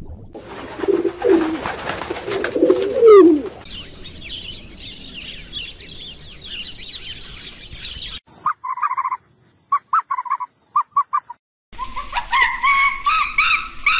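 Pigeons cooing with a flutter of wings, then a sparrow chirping rapidly. After that comes a string of short, separate calls with silent gaps, and near the end a dense run of repeated calls.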